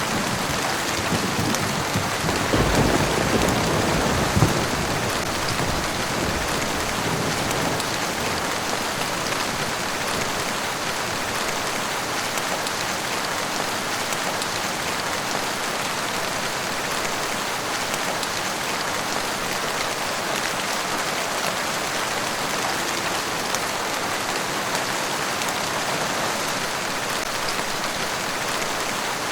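Steady rainfall, an even hiss of rain hitting surfaces. A low rumble dies away in the first few seconds.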